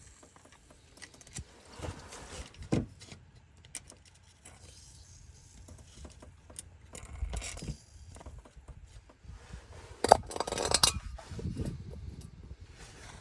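Metal tools and parts being handled: scattered light clinks and scrapes, with a louder burst of clattering about ten seconds in.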